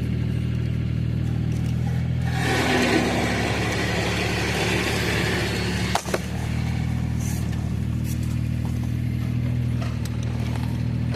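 Vacuum cleaner motor running steadily while it sucks a guide line through a long conduit. About two seconds in, the hum turns for a few seconds into a louder airy rush. A sharp knock comes about six seconds in, and the steady hum resumes.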